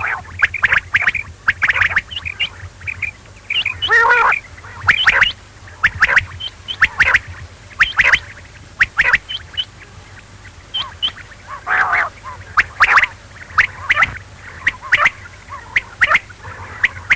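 Quail calling: many short, sharp chirping calls in quick, uneven succession, with a few longer, fuller calls among them.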